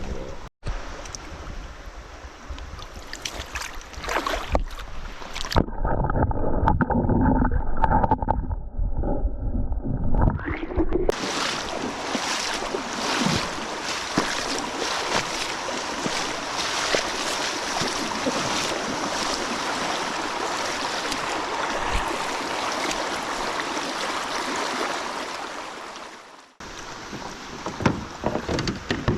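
Steady rushing of river water and wind noise around a kayak, broken by edits into several segments; one stretch in the middle sounds muffled, with only low and middle sounds.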